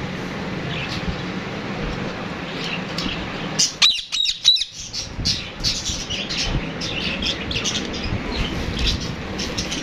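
Pet parrot squawking: a few loud, sharp calls about four seconds in, then a run of short chirps and squawks.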